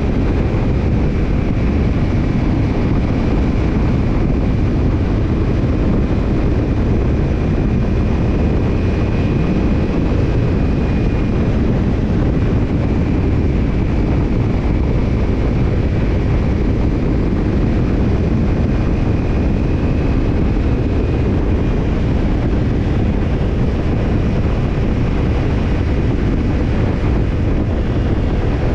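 Kawasaki Ninja 250 parallel-twin engine running through a BEET Nassert Evolution Type II titanium slip-on muffler at a steady speed, with wind rushing over the microphone.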